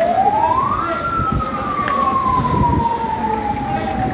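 A wailing siren: a single tone sweeps quickly up about a second in, then slides slowly back down, over a steady low rumble.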